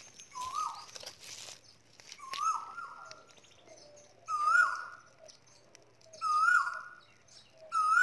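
A bird calling repeatedly: five short notes, each rising then dropping in pitch, about one every two seconds, the later ones louder. Faint clicks of handling sound between the calls.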